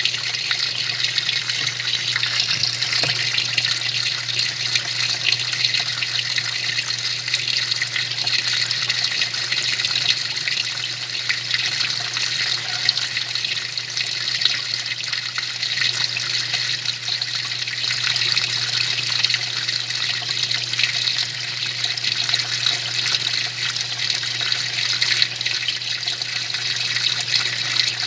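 Small 'faz tudo' washing machine running, water churning and sloshing in the tub over a steady low motor hum.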